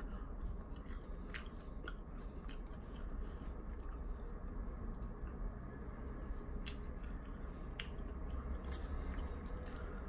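Close-miked chewing of a thick breaded chicken nugget: wet mouth sounds with scattered sharp clicks throughout.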